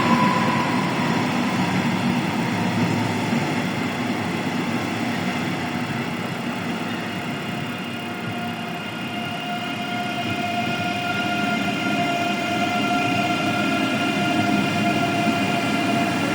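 ODEG passenger train running on the rails with steady rolling noise. A whine falls in pitch at the start, and a steady higher whine comes in about halfway through.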